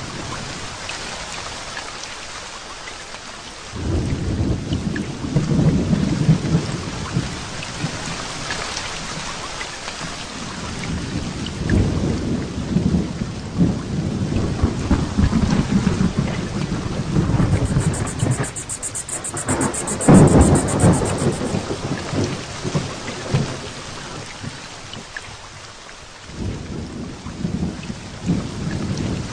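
Heavy rain falling steadily through a thunderstorm, with low thunder rumbling in several rolling waves. A sharp, loud thunderclap about twenty seconds in is the loudest moment.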